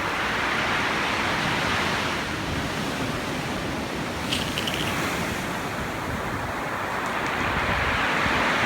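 Stormy sea surf breaking and washing ashore: a steady rush of noise that swells at the start and again near the end, with wind buffeting the microphone.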